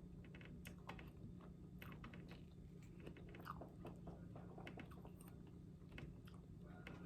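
Faint close-up chewing of apple with caramel dip: scattered soft crunches and wet mouth clicks over a low steady hum.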